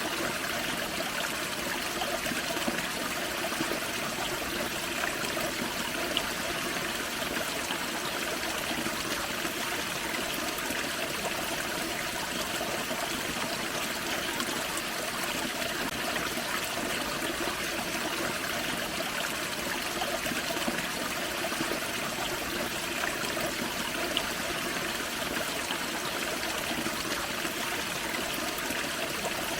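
Small forest creek and waterfall: water running and splashing steadily over rocks.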